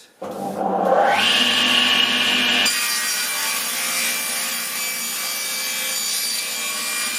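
Table saw switched on about a quarter second in, its whine rising as the blade comes up to speed. From just under three seconds in the blade is cutting through thick timber, a steady sawing noise.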